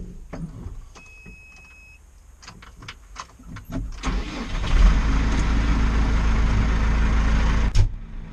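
A few clicks and a short beep, then a small Massey Ferguson four-wheel-drive tractor's engine starts about four seconds in and runs loudly, dropping suddenly to a quieter, steady idle near the end.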